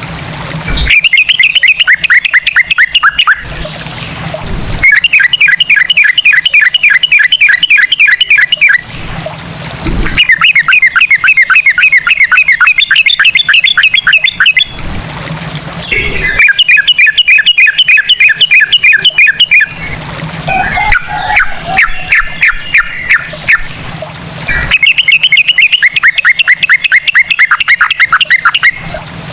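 Yellow-vented bulbul (trucukan) singing its fast trilled 'ropel' song in bursts of rapidly repeated notes, each lasting about three to four seconds, with short pauses between them. One burst past the middle is choppier and more varied.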